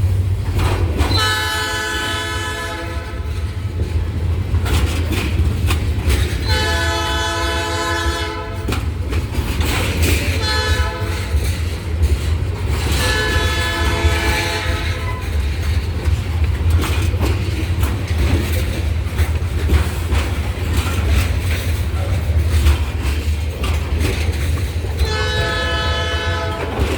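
Diesel freight locomotive horn sounding the grade-crossing signal, long, long, short, long, over the steady rumble of the passing train. Another long blast starts near the end.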